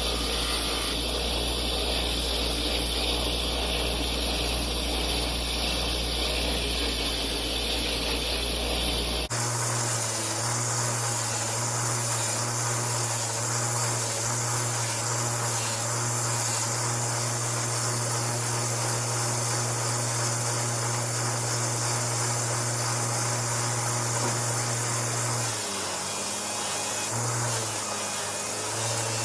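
Old bench grinder running steadily with a buffing wheel, polishing a plastic Honda 600 lens under light pressure. The motor hum changes pitch abruptly about nine seconds in and wavers briefly near the end.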